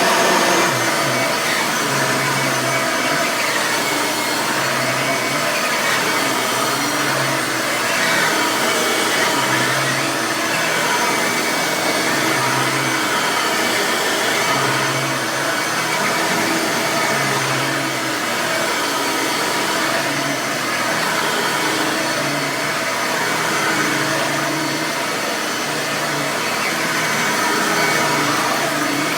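A 9-amp Bissell upright soft-bag vacuum cleaner running continuously, its motor whine steady, with a gentle rise and fall in loudness.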